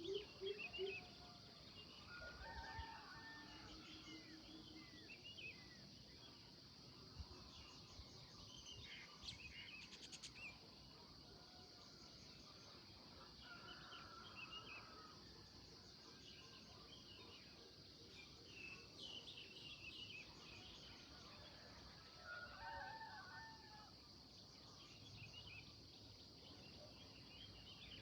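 Several birds chirping and calling faintly, with a few fuller, lower calls now and then, over a steady high hiss.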